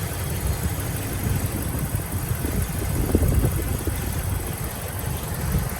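Dodge Ram's Hemi V8 engine running with a steady low rumble, after a failed MDS lifter has been replaced.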